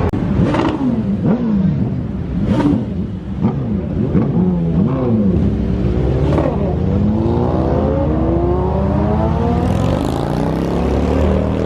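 A car engine revving up and down several times, then accelerating hard with its pitch climbing steadily for several seconds. A few short sharp cracks come in between.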